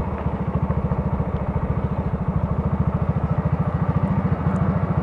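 Honda Grom's 125 cc single-cylinder engine idling with a steady, even pulsing.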